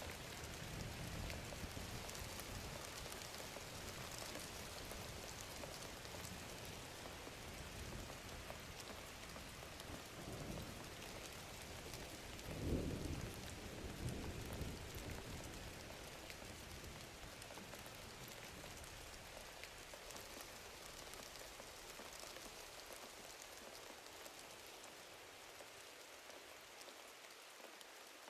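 Thunderstorm: steady rain with low rolls of thunder, the loudest roll about halfway through. After it the storm slowly fades.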